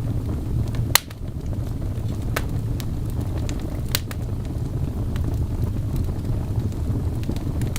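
Wood fire burning in a fireplace: a steady low rumble of flames with sharp crackles and pops, the loudest about a second in and a few more scattered through.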